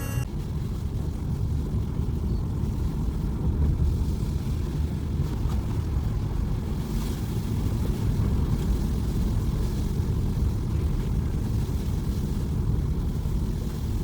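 Steady rumble of a car driving along a road: engine and tyre noise with no breaks.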